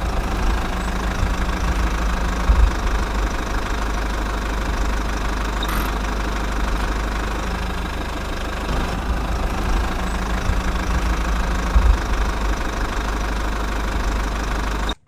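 Small engine running steadily at idle with a low, even knock, with two brief louder knocks, about two and a half seconds in and near the end, then cutting off suddenly.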